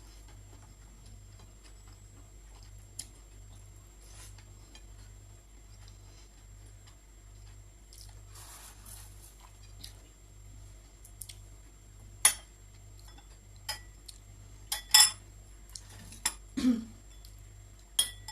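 Cutlery clinking against dishes while eating, a few scattered sharp clicks with the loudest about twelve and fifteen seconds in, and a short rustling slurp-like noise around eight seconds, over a steady low hum.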